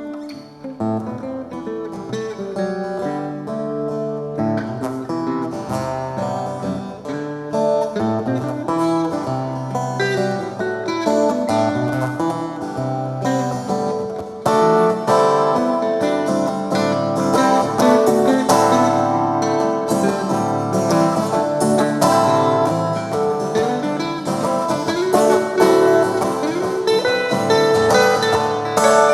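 Guitar music: an instrumental break of changing picked notes over low held chords, getting louder about halfway through.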